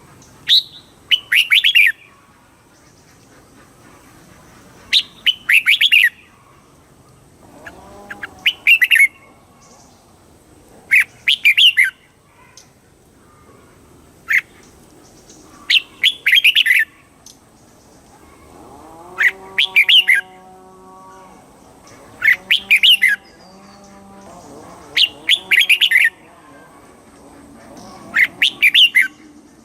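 Red-whiskered bulbul singing: short, loud, warbling song phrases of about a second each, repeated roughly every three seconds, nine in all. Fainter, lower-pitched calls sound behind them about two thirds of the way through.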